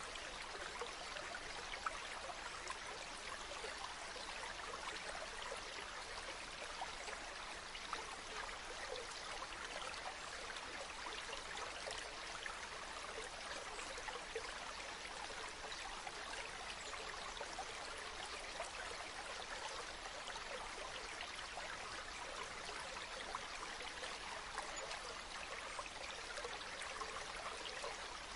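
Running water: a steady, even rush of flowing water with fine splashes and trickles.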